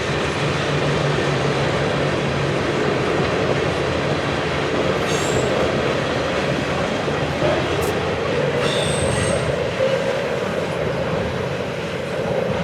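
A train rolling past, a steady rumble of wheels on rail, with brief high-pitched wheel squeals about five and nine seconds in.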